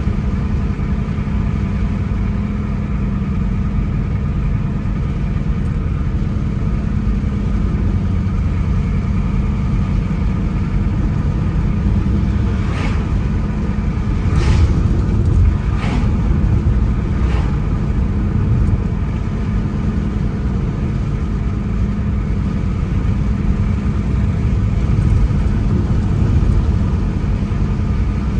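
Car driving along a road: steady engine and tyre rumble, with four short, sharp knocks spaced about a second and a half apart near the middle.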